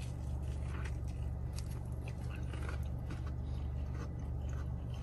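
Mouth biting into and chewing a Popeyes fried chicken sandwich, with faint, irregular crunches of the breaded crust. A steady low hum runs underneath.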